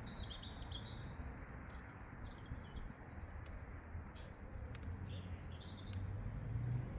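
Small birds chirping in short twittering phrases, several times, over a low steady background rumble.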